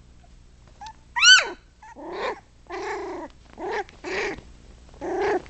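Four-week-old puppies vocalizing: one sharp, high yelp about a second in, then a run of five shorter whining yips.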